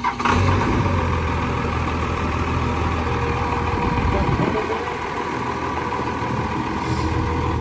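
A motor vehicle engine running loudly and steadily close by, easing briefly about halfway through and cutting off abruptly near the end.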